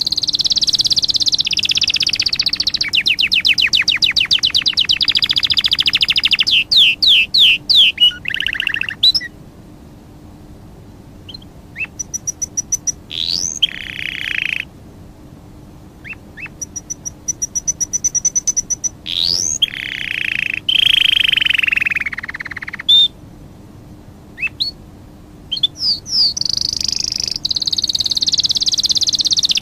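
Songbirds singing and calling: fast trills, rising whistled sweeps and chirps, with two short lulls in the song. A faint steady hum lies underneath.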